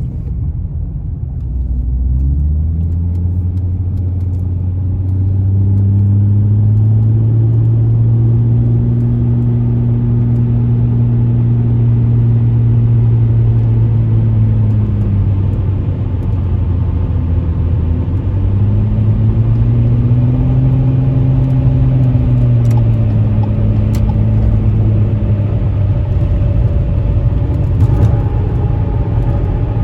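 Subaru Outback 3.6R's flat-six engine and exhaust droning while the car is driven. The pitch climbs over the first few seconds, holds steady, eases off around the middle, then rises and falls once more.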